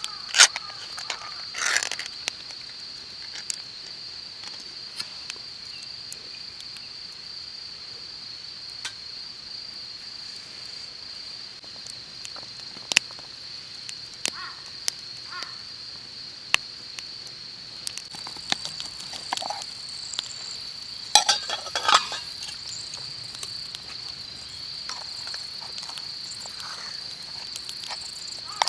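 Insects chirring in one steady, unbroken high trill, with scattered sharp clicks and a brief cluster of knocks a little past two-thirds of the way through.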